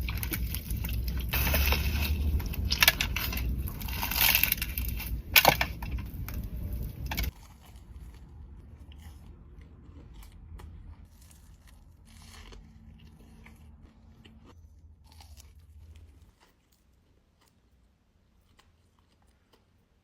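Close-miked eating of pastries: crunchy bites and chewing, loud for about seven seconds, then cutting suddenly to quieter chewing with scattered crunches, and near silence for the last few seconds.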